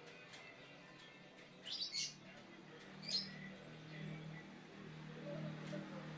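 Three short, high-pitched animal chirps or squeaks: two close together about two seconds in and one about a second later, over a faint low steady hum.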